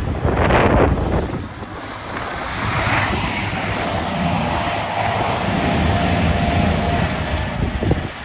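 CrossCountry Class 170 Turbostar diesel multiple unit running past, its underfloor diesel engines droning with a steady whine over the middle stretch.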